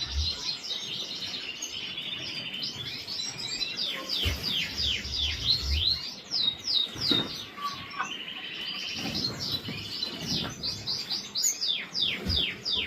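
Several parrot finches calling in an aviary: rapid series of high, thin, downward-sweeping chirps and buzzy trills, with a few low thuds.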